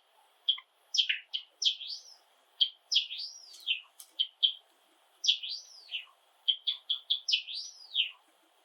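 Java sparrows chirping and singing: a run of short clipped chirps mixed with arching notes that rise and fall in pitch, coming in quick bursts with short pauses between.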